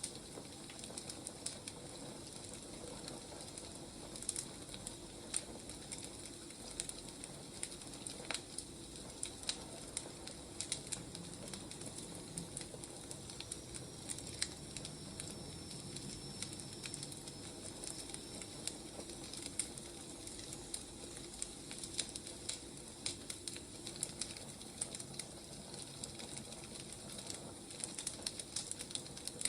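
Wood fire crackling: irregular sharp pops and snaps over a steady soft hiss of burning logs.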